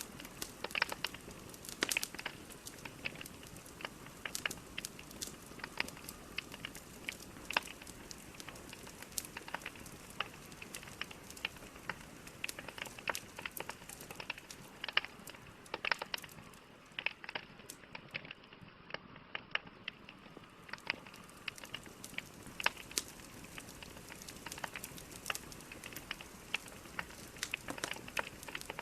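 Wood logs burning in a fireplace, crackling with irregular sharp pops and snaps over a soft steady hiss, the crackles thinning out for a few seconds past the middle.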